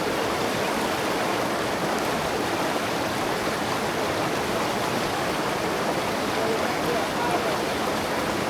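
River water flowing and rushing, a steady, even rush with no change in level.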